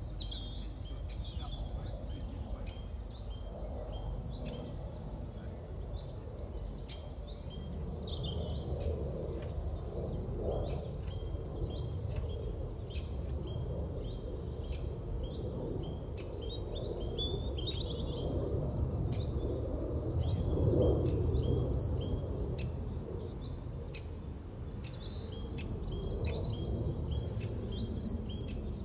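Small birds chirping and singing in many short, high notes, over a steady low rumble.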